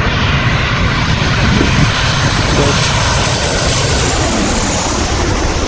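Loud, steady aircraft engine noise of an airplane flying past, with a faint high whine that sinks slightly in pitch in the second half.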